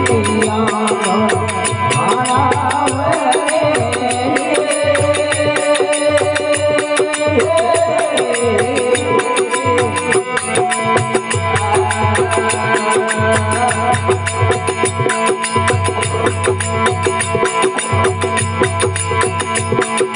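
Rajasthani desi bhajan music: a wavering melody line over fast, even, crisp percussion strokes and a steady drum beat.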